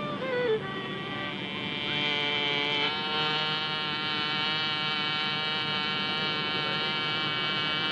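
Steady buzzing drone of a small propeller aeroplane's engine, a sound effect for a toy plane in flight, settling to an even pitch about three seconds in.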